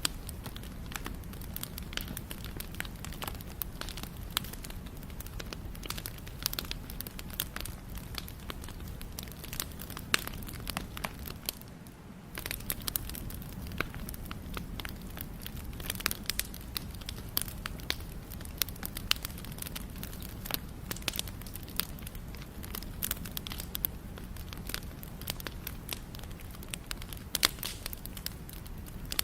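Wood fire burning, with constant irregular sharp crackles and pops over a low steady rumble of flame.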